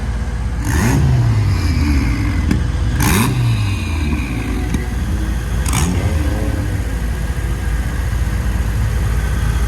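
Car engines revving, three sharp rev-ups about a second, three seconds and six seconds in, each rising then falling back, over a steady low engine rumble.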